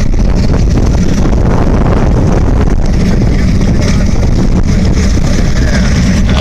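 Car engines running with a loud, steady low rumble.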